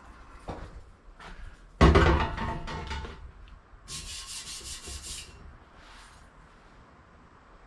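Pieces of scrap metal handled and dropped, with a few light clicks, one loud clank about two seconds in that rings briefly, then a short rapid scraping a couple of seconds later.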